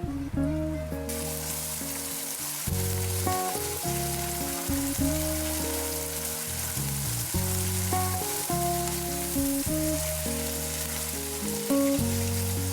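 Food frying in hot oil in a pan, sizzling steadily; the sizzle starts suddenly about a second in. Background music plays throughout.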